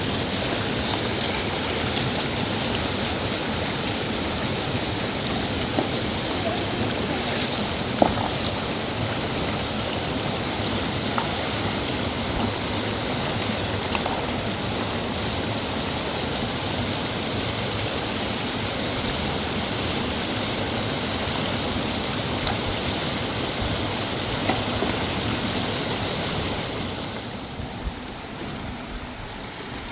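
River water flowing and rushing steadily, with a few brief knocks now and then. The rush gets quieter near the end.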